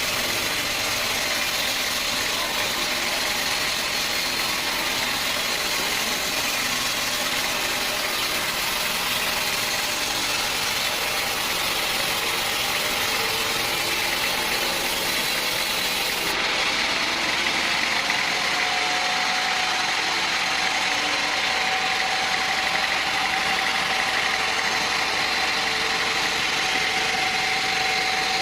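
Sawmill machinery running steadily with a motor drone and a thin whine that rises a little in pitch about two-thirds of the way through.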